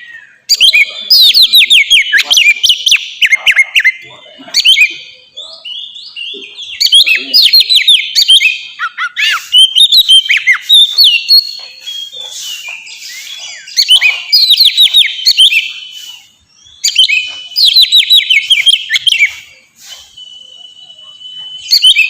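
Oriental magpie-robin (kacer) singing loud, full 'ngeplong' song. It comes in bursts of rapid falling whistles and trills with short pauses between them, and a single held whistle near the end.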